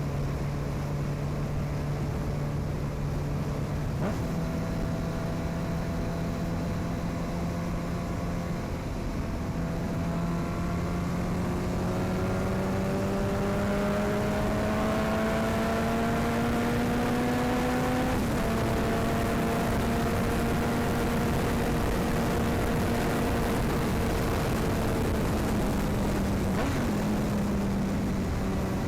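Honda CB1000R inline-four engine with an aftermarket sport exhaust, under way at a steady cruising note over wind and road rush. Past the middle the pitch climbs slowly as the bike accelerates for several seconds. It then drops suddenly with an upshift and steps down again near the end.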